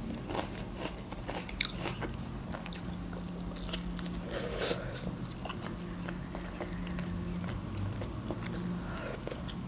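A person biting into and chewing grilled chicken from the drumstick: a string of small wet mouth clicks and soft smacks.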